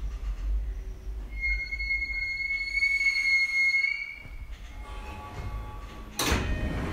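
Tokyu 2020 series electric train running slowly with a low rumble and a steady high squeal from about one to four seconds in as it draws to a stop; the rumble dies away, then a sudden burst of noise starts near the end.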